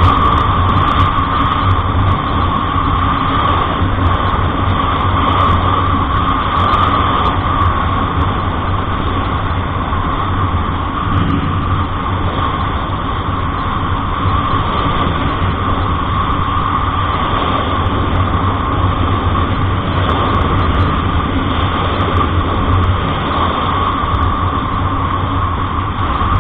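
Steady engine and road noise of a moving vehicle: an unbroken drone that holds level throughout.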